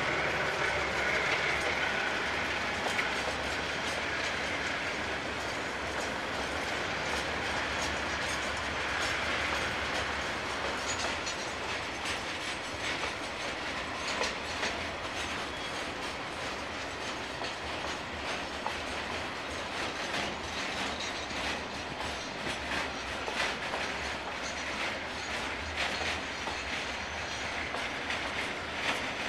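Container freight train wagons rolling past, wheels clicking steadily over the rail joints.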